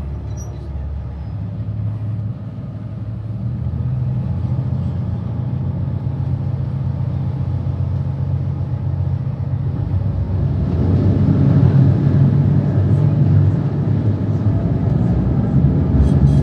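Small river ferry's engine running steadily, a low hum that grows louder and rougher about ten seconds in.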